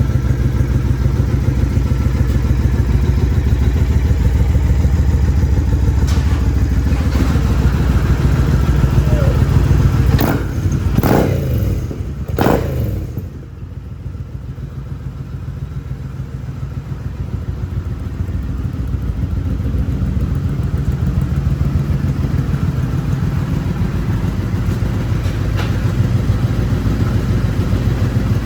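Triumph Bonneville America 865's air-cooled parallel-twin engine idling steadily, with a couple of short throttle blips whose pitch rises and falls a little before the middle.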